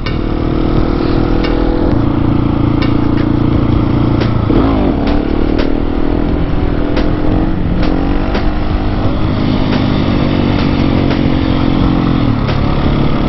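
Husqvarna 701 Supermoto's single-cylinder engine running steadily on the move, its pitch dipping and recovering briefly about four and a half seconds in and again near eight seconds, then falling as the revs drop near the end.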